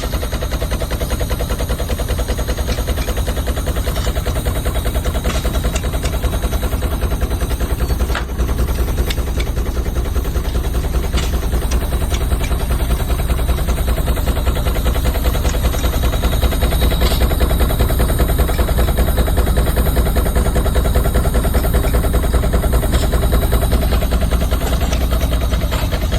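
Steam traction engine running steadily under load, driving a sawmill, with a rapid, even beat.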